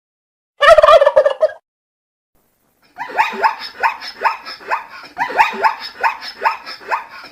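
Turkey gobbling once, a loud warbling call about a second long, about a second in. From about three seconds in comes a quick run of short, falling yelping calls, roughly three a second.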